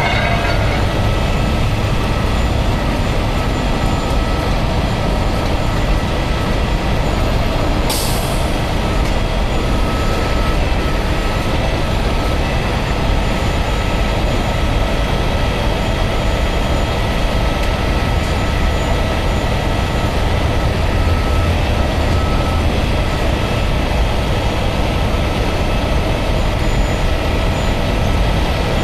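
Heavy tow truck's diesel engine running steadily, with a short air-brake hiss about eight seconds in.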